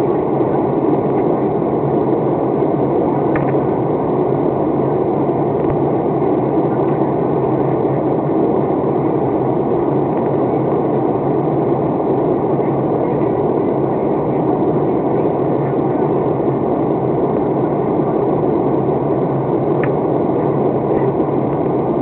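Passenger airplane cabin noise in flight: a steady, even rush of engine and airflow noise, with two faint clicks, one a few seconds in and one near the end.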